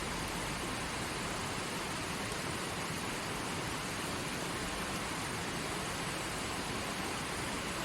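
Stream water flowing over rocks: a steady, even rushing with no breaks.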